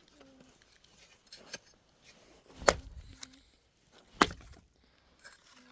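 Two heavy chopping blows on wood, about a second and a half apart, with a couple of lighter knocks before them.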